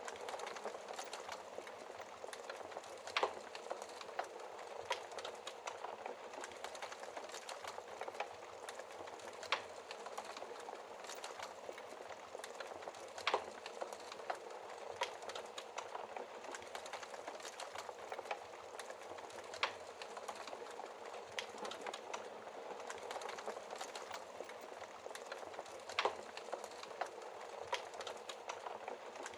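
Wood fire crackling in a fireplace: a steady hiss of burning logs with irregular sharp pops and snaps, a few louder ones scattered through.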